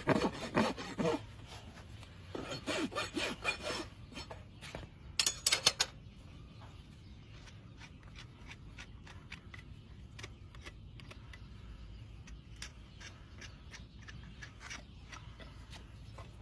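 Farrier's rasp filing a horse's hoof in quick back-and-forth strokes, about five a second, in several short runs over the first six seconds. After that come only faint scattered scrapes and clicks.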